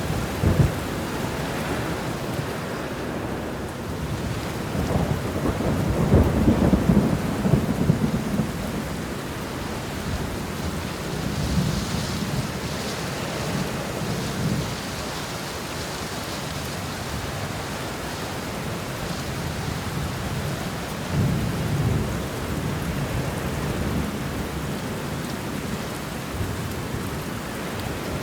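Steady rain with thunder rumbling several times; the loudest roll comes about five to eight seconds in, and lighter ones follow near the middle and about three quarters of the way through.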